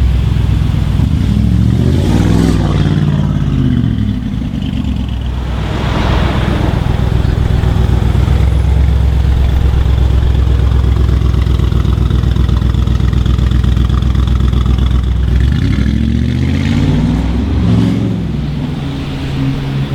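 A supercar engine revving and accelerating, its pitch climbing and dropping through gear changes twice, with a steady low engine drone in between.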